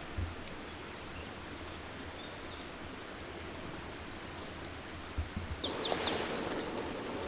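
Small birds chirping over a steady outdoor hiss; near the end a bird gives a quick run of chirps and the background grows louder.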